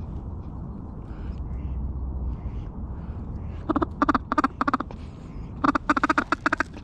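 Mallard hen-style quacking in two quick runs, first about five notes, then about six or seven, over a steady low rumble.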